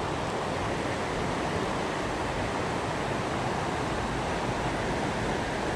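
Flowing river water rushing steadily, an even hiss.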